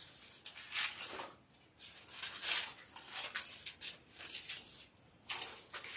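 Pages of a book being turned: a series of short, irregular paper swishes and rustles.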